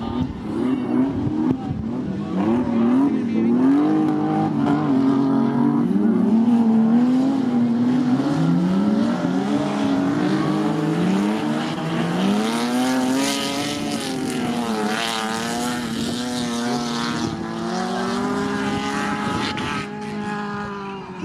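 Several banger racing cars' engines revving hard as they race round the oval, their pitch rising and falling over and over as they accelerate, lift off and pass.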